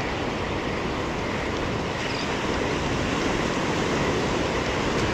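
Steady noise of ocean surf washing on a beach, with wind buffeting the microphone.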